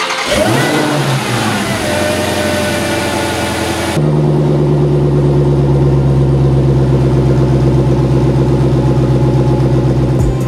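Dodge Challenger SRT Demon 170's supercharged 6.2-litre HEMI V8 catching and flaring on a cold start, the revs settling with a falling whine over the first couple of seconds. About four seconds in it switches abruptly to a steady, lumpy idle heard from behind the exhaust tips.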